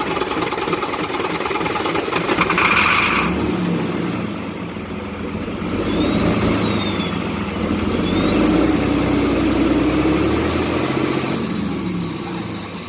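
Heavy truck's diesel engine running just after starting, revved up and down a few times with a high thin whine over it, easing off near the end.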